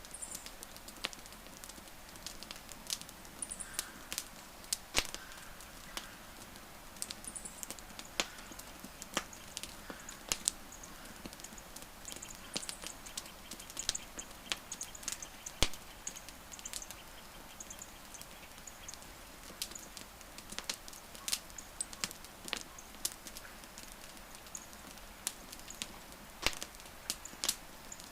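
Wood fire crackling, with sharp irregular pops and snaps over a soft steady hiss. Faint short high chirps come and go in the background now and then.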